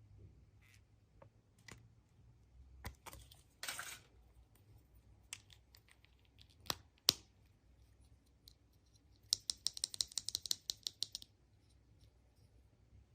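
Small plastic toy pieces and packaging handled by hand: scattered light clicks, a brief crinkle, two sharper clicks, then a quick rattling run of about a dozen clicks in two seconds.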